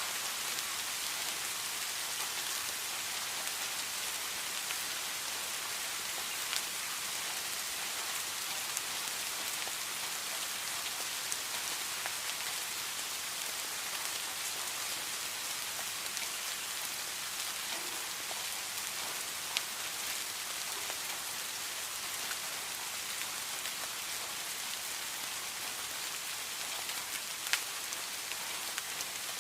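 Steady rain falling, a constant hiss with a few sharper individual drop ticks scattered through it.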